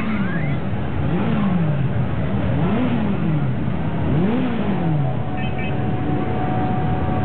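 Motorcycle engine revved up and back down repeatedly, about once every second and a half, four times in a row.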